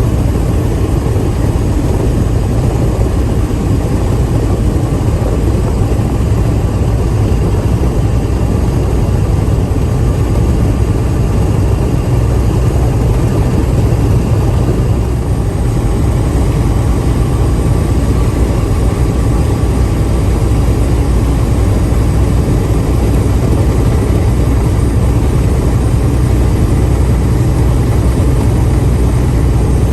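Steady low drone of a vehicle's engine and road noise while driving.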